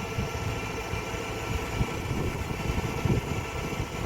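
Engine of a boat-lifting machine running steadily with a low rumble.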